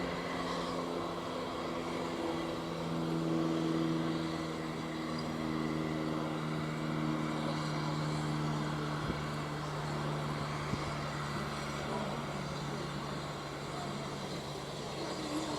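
An engine running steadily with an even, low hum, and a couple of faint clicks partway through.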